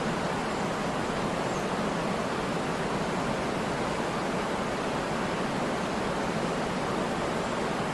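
Waterfall: water pouring in a steady, even rush.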